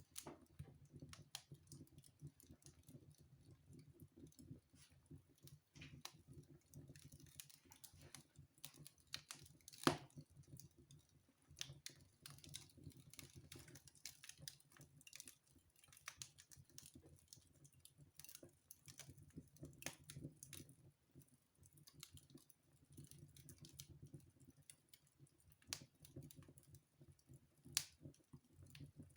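Wood fire burning in a fireplace, crackling with faint irregular pops and snaps, one sharper pop about ten seconds in and another near the end.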